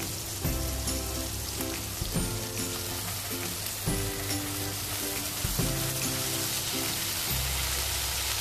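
Spices and ginger-chilli paste sizzling steadily in hot ghee in a wok, with soft background music playing over it.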